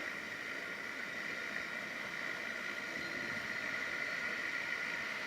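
Seaplane's propeller engines running with a steady whine over a hiss of noise.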